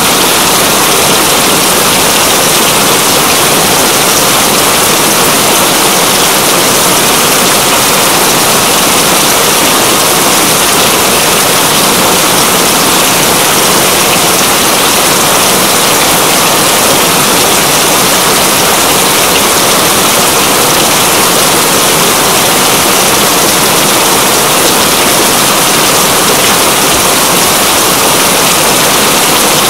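Steady, heavy rain hiss, dense and even without a break.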